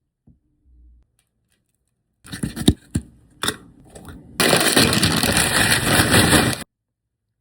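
Takeout food packaging being handled and opened: rustling and crinkling, with a few sharp crackles, then a loud continuous rustle that cuts off abruptly.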